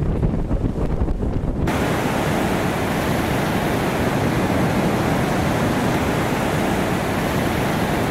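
Wind buffeting the microphone on a moving jet ski, giving way about two seconds in to a steady, loud rushing hiss of water and spray.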